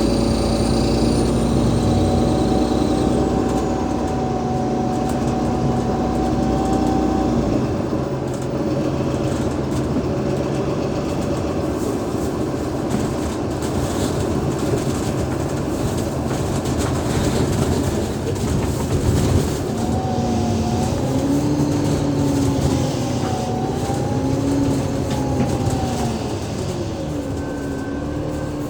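Alexander Dennis Enviro500 MMC double-deck bus under way, its Cummins ISL8.9 diesel and ZF Ecolife automatic gearbox giving a steady drivetrain whine over a low rumble. The deep rumble drops away about seven seconds in, and later the whine rises and falls in pitch several times before gliding down near the end.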